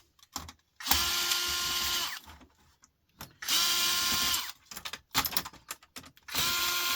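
Cordless drill/driver running in three short bursts of about a second each, its motor whine spinning up and winding down every time, backing out screws. Small clicks and rattles of parts come between the bursts.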